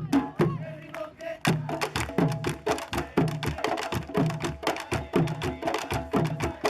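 Candombe drumming: a group of tambores played with stick and hand, sharp stick strikes on the wooden drum shells over repeated low drum beats in a steady interlocking rhythm. It thins briefly about a second in, then comes back in full.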